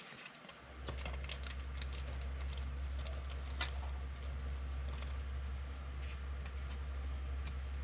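Quick, irregular clicking of keys being typed on a computer keyboard, over a steady low hum that comes in about a second in.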